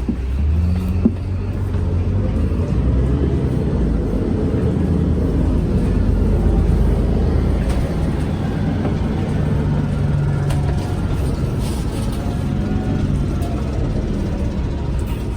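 MAN Lion's City G articulated city bus under way: a steady low rumble of engine and running gear, with a faint whine that bends up and down now and then.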